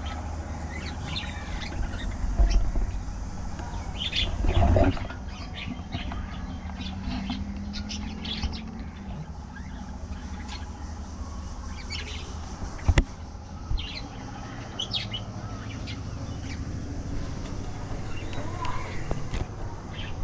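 A colony of budgerigars chirping and chattering in many short, scattered calls over a steady low hum. A couple of heavy low thumps come early on, and there is a sharp click about two-thirds of the way through.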